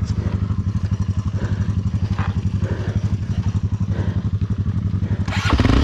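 Honda XR Tornado dirt bike's single-cylinder four-stroke engine idling with a steady, even pulse, then revved up sharply about five seconds in. The bike is hung up on a rock by its skid plate and the rear wheel gets no traction.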